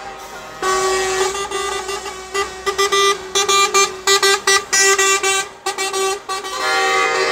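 Truck horns honking: a held blast starting about half a second in, then a run of quick short blasts, and another long held blast near the end.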